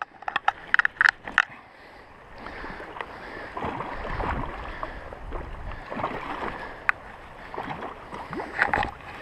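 Stream water sloshing and splashing close to the microphone, with a few sharp clicks and knocks in the first second or so and another single click later on.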